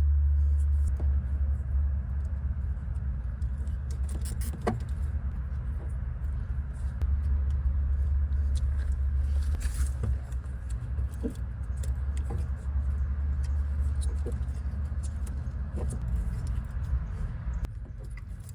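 A steady low rumble that drops away near the end, with scattered light clicks and rustles of hands fitting heat shrink tubing onto headlight bulb wires.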